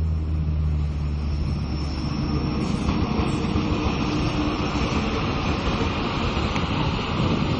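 A train passing: a low engine drone fades over the first couple of seconds, giving way to the steady rushing rumble of the cars rolling by.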